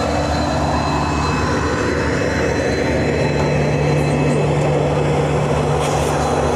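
Mahamana Express passenger train rolling slowly into a station, heard from the open coach door: a steady rumble of wheels on rail with a thin, steady high-pitched whine over it.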